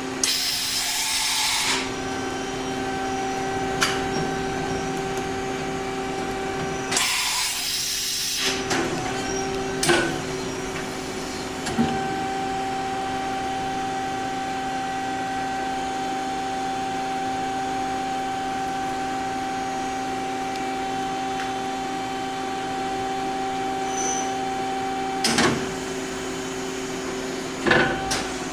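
1986 Washino WMC-14 CNC machining center running, a steady machine hum with a few fixed tones. Two bursts of hissing come in the first nine seconds, and sharp clicks and knocks sound at intervals, twice near the end.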